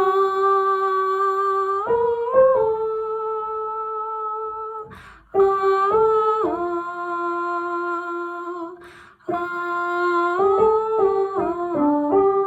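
A single voice singing a wordless melody line on a held vowel: long sustained notes with a couple of short steps in pitch. There are brief pauses for breath about five and nine seconds in, then a run of shorter, quicker-moving notes near the end.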